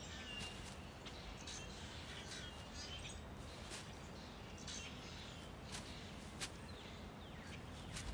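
Faint outdoor ambience: scattered short bird chirps and twitters over a low, steady background hiss.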